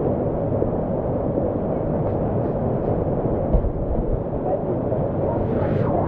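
Steady, muffled rushing of river water, with a dull thump about three and a half seconds in.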